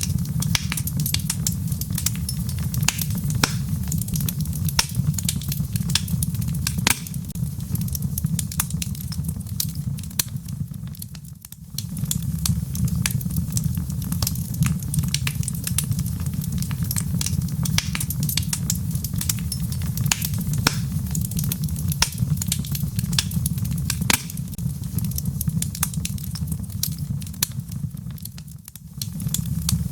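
Wood fire in a fireplace crackling and popping, with many sharp snaps over a steady low rumble of the flames. The sound dips briefly twice, once near the middle and once near the end.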